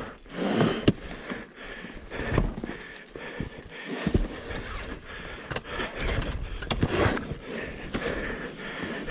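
A worn-out rider breathing hard in heavy, noisy breaths, with scattered knocks and scuffs in between.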